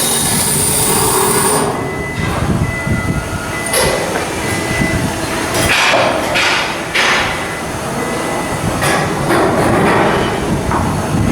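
Loud shipbuilding steelwork noise: a steady mechanical din broken by metal knocks and several short hissing surges.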